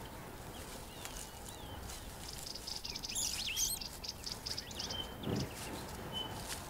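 Birds chirping in the background, with short whistled calls throughout and a rapid trill about halfway through. There is a soft low thump near the end.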